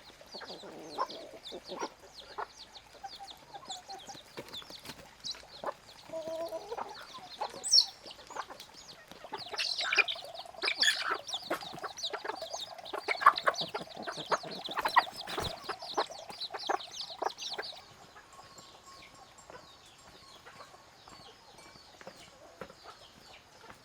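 Chickens clucking, with many short high peeps. The calls are busiest and loudest in the middle, then drop off sharply about three-quarters of the way through.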